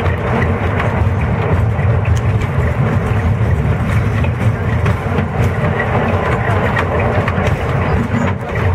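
Narrow-gauge (600 mm) forest railway train running along the track: a steady low rumble from the train as it moves, with scattered short clicks from the wheels and rails.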